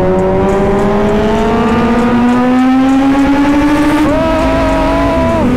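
Sport motorcycle engine pulling steadily in gear at highway speed, its note rising for about four seconds over wind rushing past the riding microphone. About four seconds in, a second, higher engine note joins and holds for about a second and a half.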